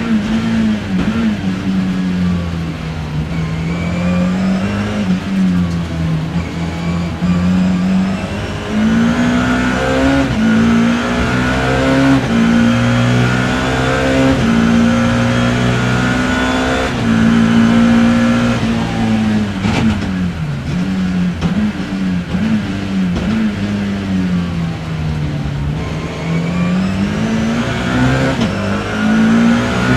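BMW E30 M3's four-cylinder engine heard from inside the car at racing speed, revving up through the gears with quick shifts. The engine note drops and climbs again twice in the second half, as it slows for corners and accelerates out.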